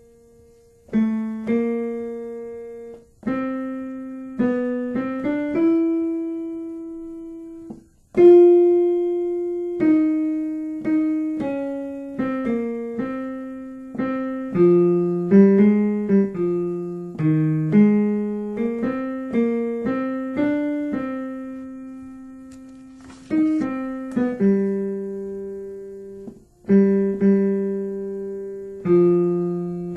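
Piano playing the tenor line of a choral part-song as a rehearsal track, mostly two notes at a time in a moderate tempo, each note struck and dying away, with a brief break about eight seconds in.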